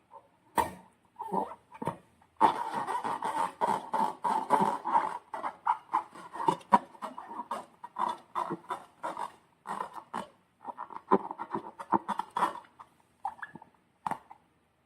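Slime in a balloon being squeezed and worked by hand: an irregular run of quick squelches and squeaks, stopping a little before the end.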